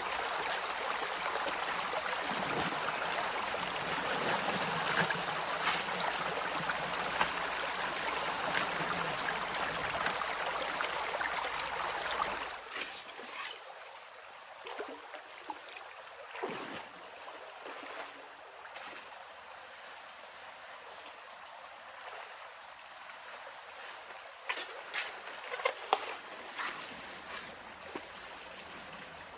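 Shallow river water rushing and trickling. About halfway through it drops suddenly to a quieter, thinner rush, and a few sharp clicks come near the end.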